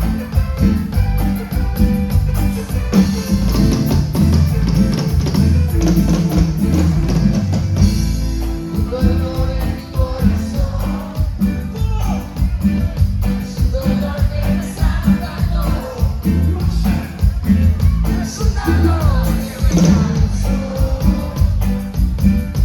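A live band playing a Latin dance tune with a steady beat: drum kit and bass to the fore, with a singing voice at times.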